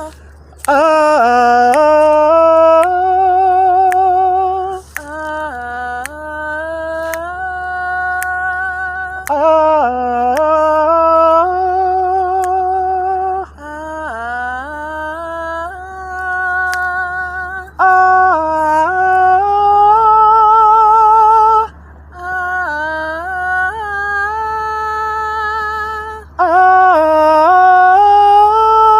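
Two voices singing a wordless vocal warm-up in call and response: a louder leader sings a short phrase with sliding, wavering notes and the other voice answers it more softly, seven phrases in turn.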